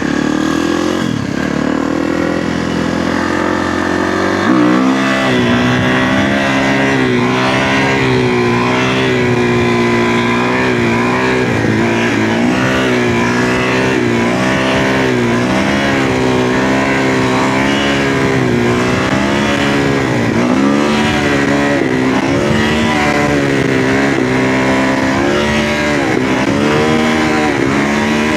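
Kawasaki KX450F dirt bike's single-cylinder four-stroke engine running under way. Its pitch climbs for about four seconds and drops sharply, then rises and falls again and again as the throttle is worked.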